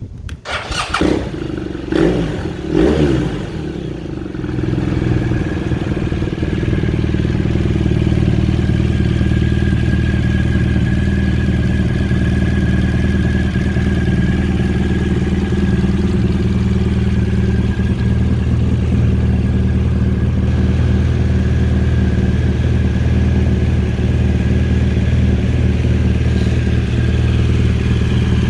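BMW R1200 GS water-cooled boxer-twin engine starting up, revved briefly about two and three seconds in, then settling into a steady idle.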